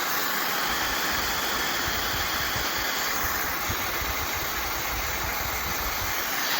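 Hand-held hair dryer running steadily, a constant rush of blown air with an uneven low rumble underneath.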